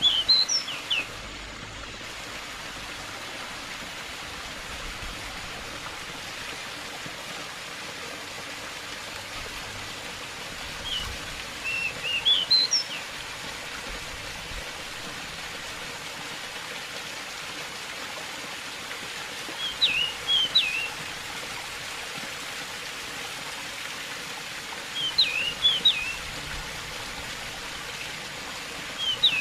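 Steady running water of a stream, with a pied bushchat (decu) singing short, quick chirping phrases five times, several seconds apart.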